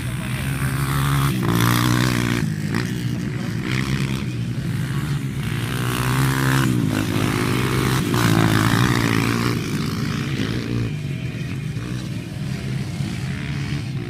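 Motocross bike engines revving up and down as riders work through the track. The engine note swells loudest three times as bikes pass close, then fades.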